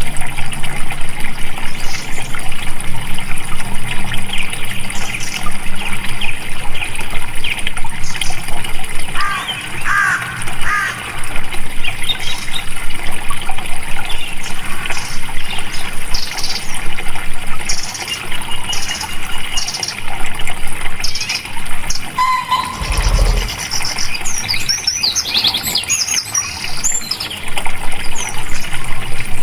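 Water flowing steadily, with many small birds chirping and trilling over it. About two-thirds of the way through comes a brief low thump.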